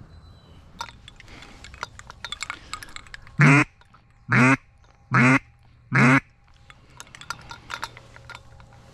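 Duck call blown in four loud, short quacks about a second apart, calling to passing ducks. Light clicks and rustling come before and after.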